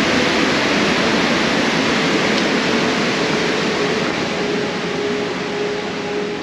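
Tunnel Falls, a tall waterfall, pouring with force, heard up close as a loud, steady rush of falling water that eases slightly near the end.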